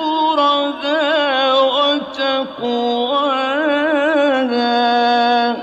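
Male Quran reciter chanting in the melodic mujawwad style, drawing out a vowel through wavering, ornamented turns of pitch, then holding one steady note that cuts off abruptly near the end.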